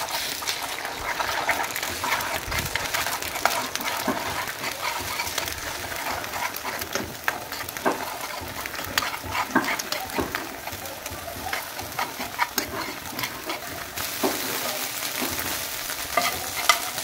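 Eggs sizzling as they fry in a skillet, with a steady hiss broken by many small pops and ticks. A metal spoon stirs and scrapes them against the pan.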